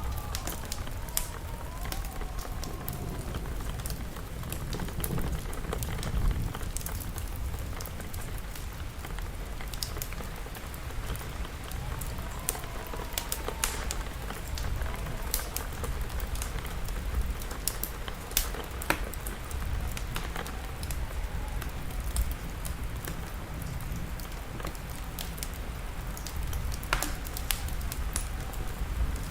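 Steady rain over a low rumble, with the sharp pops and crackles of a wood fire scattered throughout.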